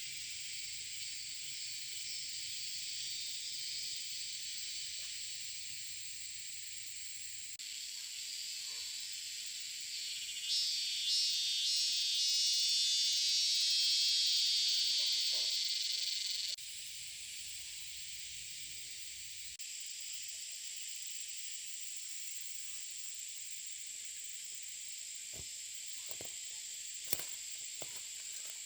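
Insects calling in a steady high-pitched buzz, which swells into a louder, rapidly pulsing chorus for several seconds around the middle. A few sharp clicks come near the end.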